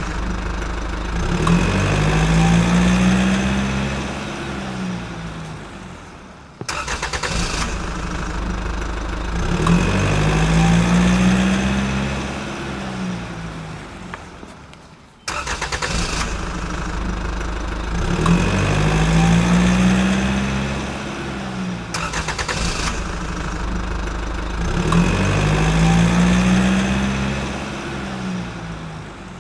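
Motor vehicle engine running and revving up and back down, four times over, as if the same clip is repeated, with sudden restarts between rounds.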